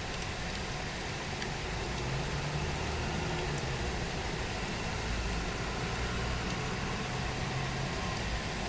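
Steady hiss of heavy tropical rain, with a low engine hum underneath that comes up about two seconds in.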